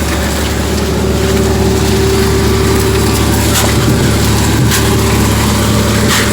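Fishing boat's engine running steadily with a constant low hum, with a few sharp knocks in the second half.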